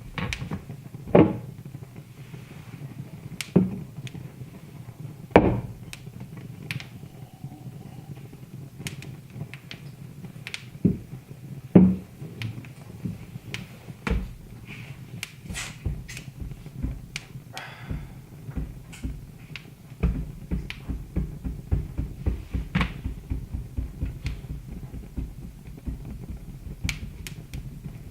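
Wood fire crackling in a fireplace: irregular sharp pops and snaps, several much louder, over a low steady rumble of the burning logs.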